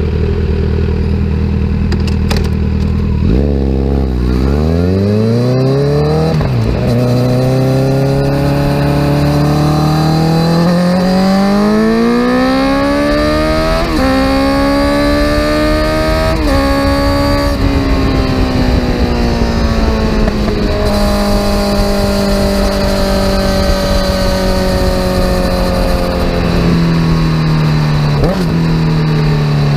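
2017 Kawasaki Z900's inline-four engine through a full aftermarket exhaust system. It runs low and steady for about three seconds, then pulls away, its pitch climbing through several gears with a short break at each shift. It then holds a steady pitch, and eases off near the end with a quick blip on a downshift.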